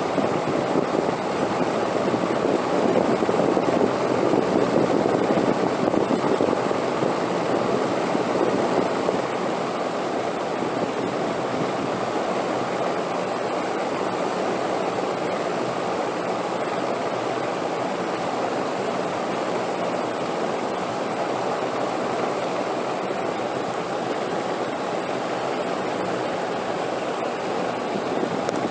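Steady rushing wind, swelling for several seconds near the start and then holding level, with no gusts or breaks.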